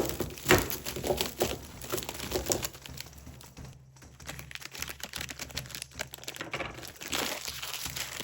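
Plastic packaging crinkling and rustling as it is handled, in irregular bursts with small clicks and taps. It is busiest at the start and again near the end.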